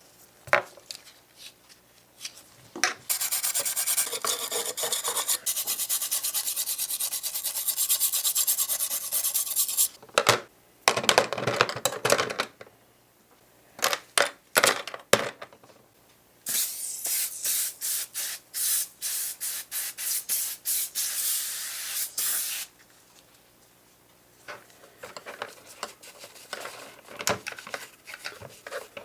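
Hand rubbing on a small model truck part, sanding or scrubbing in quick back-and-forth strokes: a long spell of fast rasping strokes, a short heavier burst, then another run of quick strokes, with small clicks and handling sounds in the pauses.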